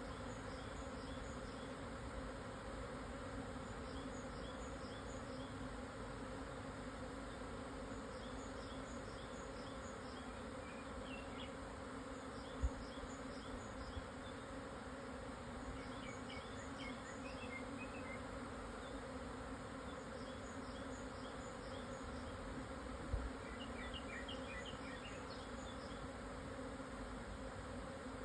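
A swarm of Japanese honeybees in flight, a steady buzzing hum with a low drone and its overtone. Faint short high chirps come and go, and there are two brief low thumps, about 13 and 23 seconds in.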